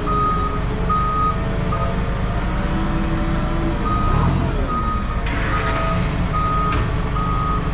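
A vehicle's reversing alarm beeping at a steady pace, about one beep every three-quarters of a second, over its running engine. The alarm pauses for a moment partway through, then resumes.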